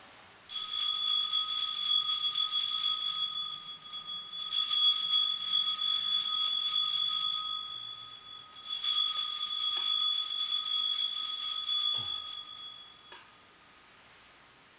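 Altar bells shaken in three rings of about four seconds each, a bright jingling cluster of high tones, marking the elevation of the host just consecrated.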